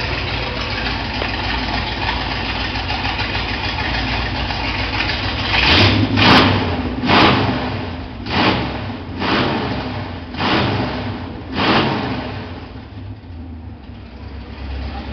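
Dodge V8 idling steadily, then revved in a string of about seven short throttle blips starting about six seconds in, before dropping back to a quieter idle near the end.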